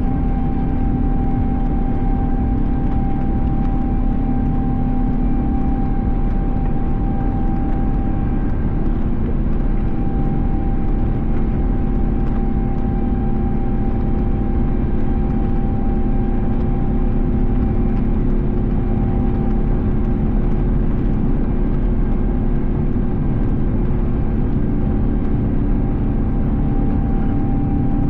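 Cabin noise inside an Airbus A350 with its Rolls-Royce Trent XWB engines running: a loud, even rush of engine and airflow noise with a couple of steady hum tones over it, holding level throughout.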